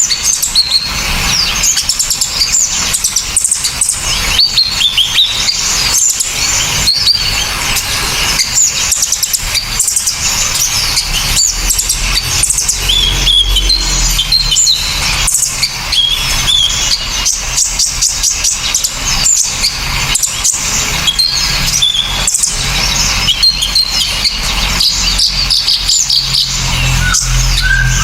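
Loud, continuous, sharp high-pitched chirping and rapid trilling from small songbirds, a combined master track of kolibri ninja, srindit, kinoi and platuk calls, recorded for songbirds to copy.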